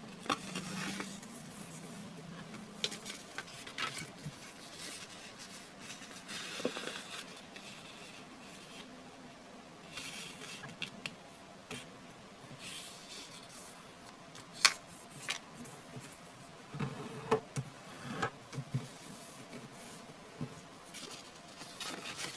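A square sheet of origami paper being folded and creased by hand: irregular rustling and crinkling, with short sharp crackles where folds are pressed down. The loudest crackle comes about two-thirds of the way in.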